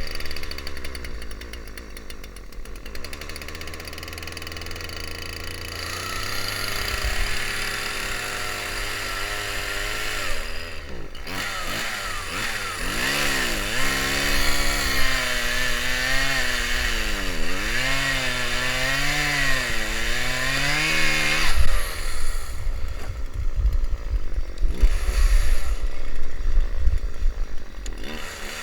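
Small engine of a homemade karakat all-terrain vehicle running, its pitch rising and falling repeatedly with the throttle through the middle, then dropping back to a low rumble near the end.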